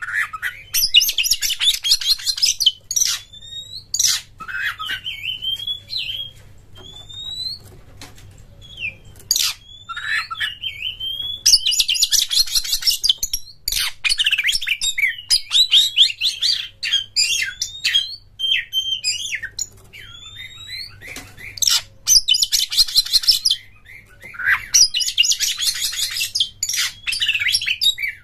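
Oriental magpie-robin (kacer) singing a varied song full of mimicked phrases: three long bursts of rapid, scratchy chattering trills, with short slurred whistles between them.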